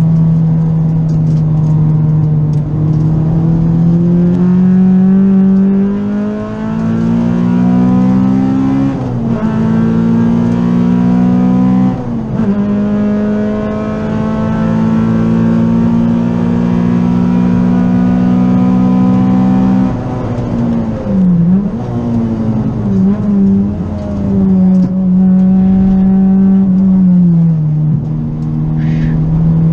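Honda B18CR 1.8-litre VTEC four-cylinder of an EG Civic track car under hard acceleration, heard from inside the cabin: revs climb and fall back at two upshifts, hold high along a straight, then dip and jump several times as the car brakes and shifts down for a corner, and drop again near the end.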